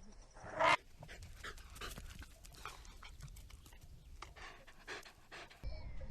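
Dog panting in quick, uneven breaths, after one short loud bark about half a second in.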